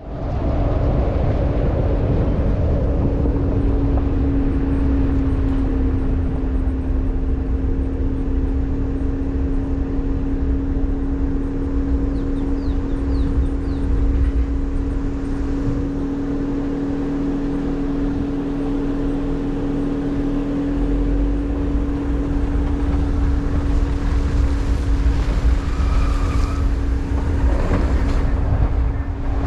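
Front-wheel-drive Volkswagen car's engine running at steady revs while driving, a constant hum over an uneven low rumble.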